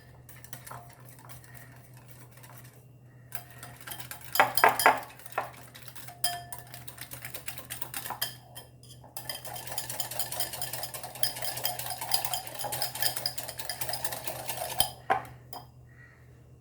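A spoon clinking and scraping against a bowl while stirring a thick curd-and-spice marinade. Scattered knocks come first, then a stretch of rapid, continuous scraping in the second half.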